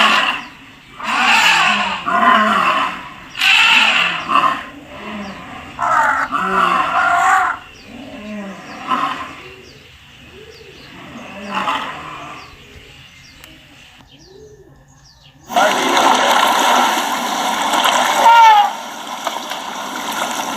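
Elephant calling again and again, one short pitched call every second or two for the first dozen seconds, the later ones weaker. After a brief silence a steady rush of running water starts, with a few bird chirps over it.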